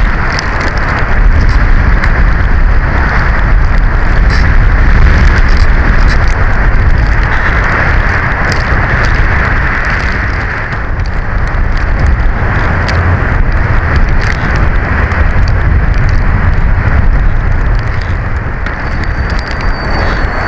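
Strong storm wind buffeting the nest camera's microphone: a loud, continuous rumbling rush that swells and eases in slow gusts, with faint scattered ticks over it.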